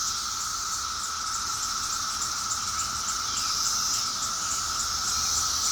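Crickets and other insects chirping steadily. There is a continuous high trill with quick, even pulses about four times a second, over a steady lower tone.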